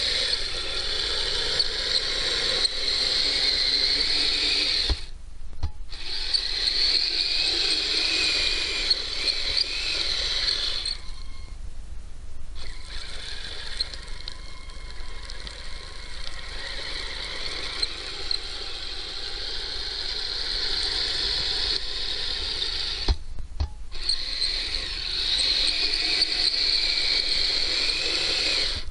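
Kyosho Blizzard RC snow vehicle's small electric motor and gear train whining as it drives through snow, cutting out briefly three times.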